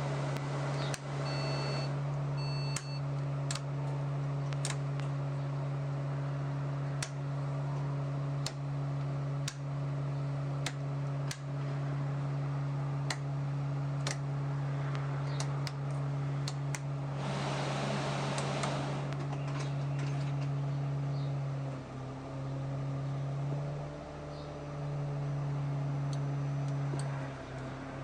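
Steady machine hum of a stationary Alexander Dennis Enviro 200 bus, with scattered sharp clicks. A few electronic beeps sound near the start, and there is a hiss of about two seconds some seventeen seconds in.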